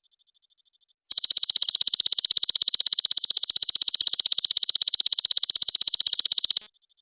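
A loud, high-pitched insect trill of rapid, even pulses, about a dozen a second, lasting about five and a half seconds. It starts about a second in and stops abruptly near the end, with a faint trill before and after it. It is a recorded call played as a song model for training a long-tailed shrike.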